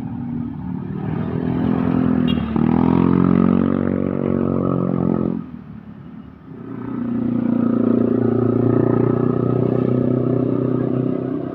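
Truck engines running as heavy trucks go through a bend: one engine pulls loudly for the first five seconds or so, its pitch shifting around two seconds in, dies away briefly, and a second engine comes up about seven seconds in and stays steady.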